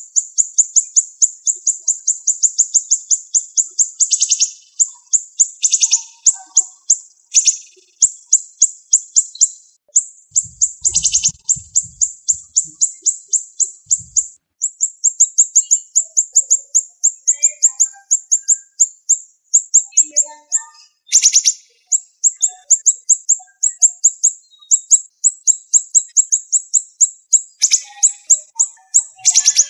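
Siri-siri bird singing a masteran (training) song: long runs of rapid, high-pitched chips, about ten a second, broken by short pauses, with a few louder, sharper calls mixed in.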